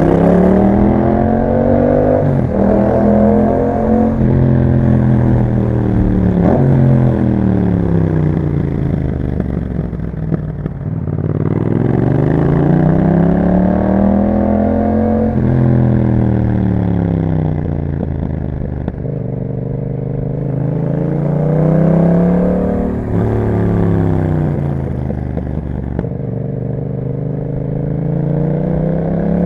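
Yamaha MT-07's parallel-twin engine through an Akrapovic exhaust, ridden hard through the gears. The engine note climbs and drops sharply at each upshift, falls away as the throttle closes, then climbs again.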